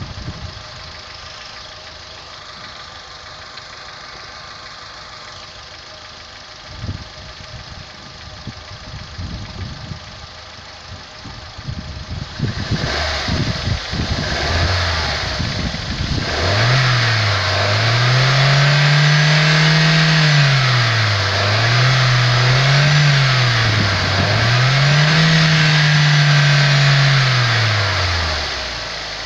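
Opel Corsa's 1.2-litre Z12XE four-cylinder petrol engine idling steadily, then revved from about twelve seconds in. Engine speed rises and falls in three long swells before dropping back near the end.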